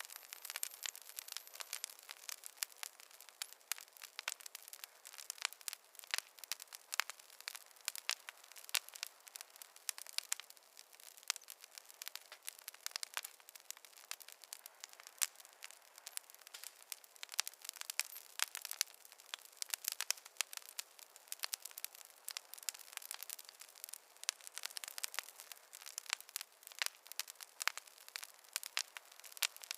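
Fireplace fire crackling, with a dense, irregular stream of sharp pops and snaps and no low rumble.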